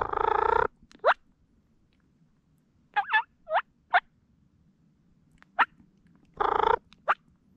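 Game calls blown close by to draw a distant gobbler: two drawn-out harsh notes, one at the start and one near the end, with a handful of short, quick rising chirps between them.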